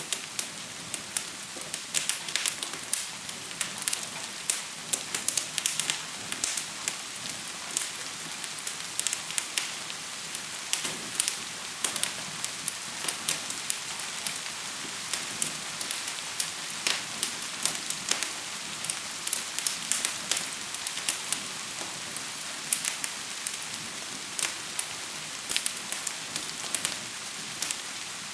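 Steady hiss of gentle rain with a wood fire crackling in irregular sharp pops, several a second at times.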